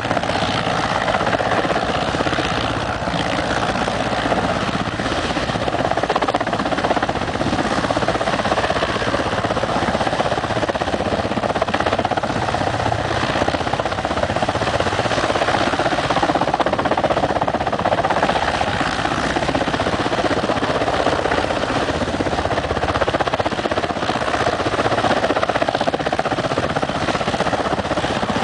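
Helicopter's rotor and turbine engine running steadily, a continuous even noise with no pauses or changes.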